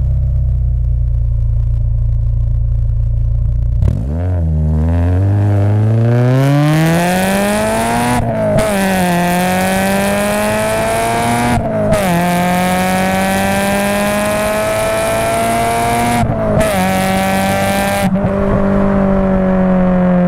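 Honda Prelude SiR's four-cylinder VTEC engine heard through a Skunk2 cat-back exhaust with a Spoon decat. It runs at a steady low note for about four seconds, then pulls hard through the gears, rising in pitch with three quick upshifts where the note briefly cuts out. Near the end it eases off to a steady, slowly falling note.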